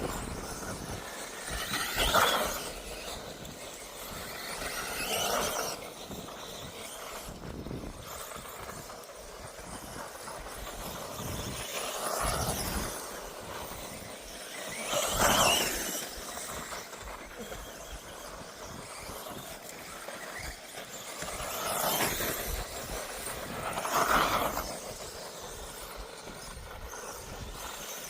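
1/10-scale electric off-road RC buggies whining past, about six passes that each swell and fade, over a steady outdoor hiss.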